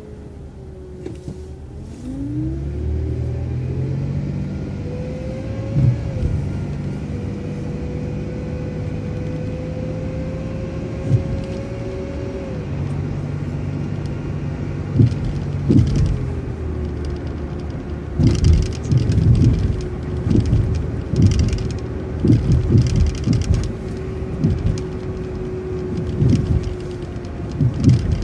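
Transit bus pulling away about two seconds in: the engine rumble rises with a thin whine that climbs and levels off, then the bus runs steadily. In the second half comes a run of sharp knocks and rattles.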